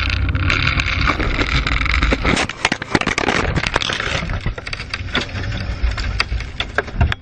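Cockpit audio from a small airplane: a steady engine and wind drone that, about two and a half seconds in, turns into a rough run of sharp clicks, knocks and crackle. The sound cuts off abruptly at the end.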